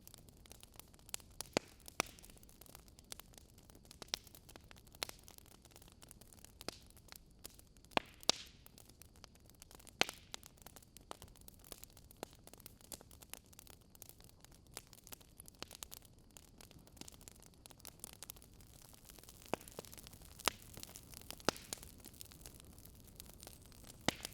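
Wood fire crackling: irregular sharp pops and snaps over a steady soft hiss, a few louder pops standing out.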